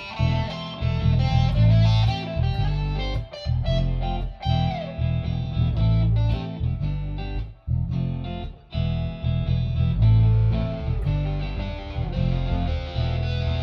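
Electric guitar playing a shuffle over a band backing with a heavy bass line, with two brief breaks about halfway through.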